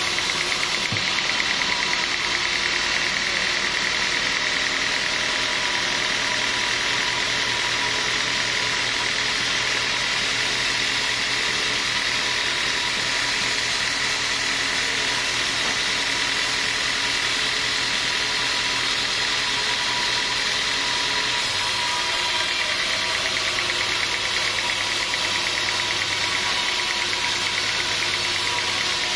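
Sawmill machinery running steadily, a continuous engine-like drone with a mechanical rattle; the low hum shifts about three-quarters of the way through.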